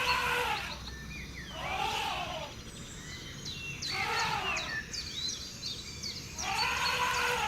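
Outdoor nature ambience: the same call rising and falling, repeated four times at about two-second intervals, with small birds chirping faintly in the middle.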